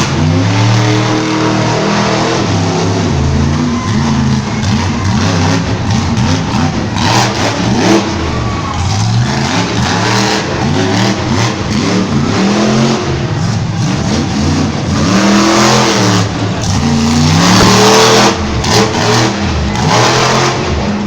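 Monster truck engine, loud, revving hard over and over, its pitch swinging up and falling back again and again.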